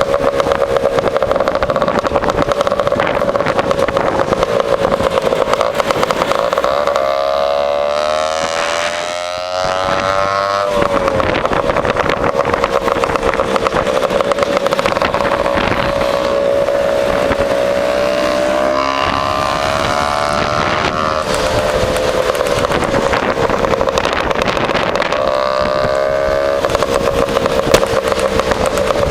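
Two-stroke Lambretta scooter engine with an AF reverse cone exhaust, running at a steady cruising note. The pitch dips and swells around 9 s, again around 20 s and near 26 s as the throttle is eased and reopened, with other scooter engines mixing in. A single sharp knock sounds near the end.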